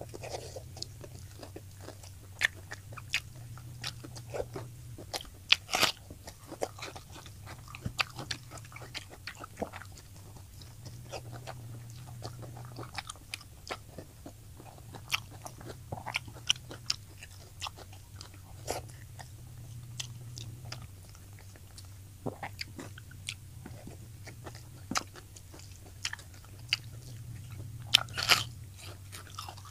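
Close-miked eating: biting and chewing crispy fried tilapia, with a string of sharp, irregular crunches and clicks, the loudest about six seconds in and near the end. A steady low hum runs underneath.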